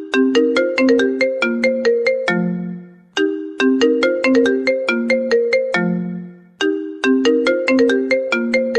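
A mobile phone ringtone looping: a short melody of quick, struck, bell-like notes that ends on a lower held note, repeating about every three and a half seconds.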